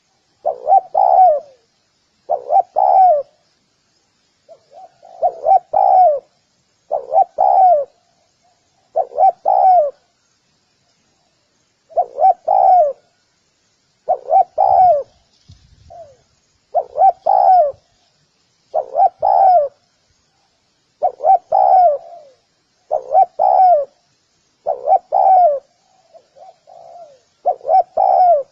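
Spotted dove calling: repeated cooing phrases of two or three notes each, coming about every two seconds.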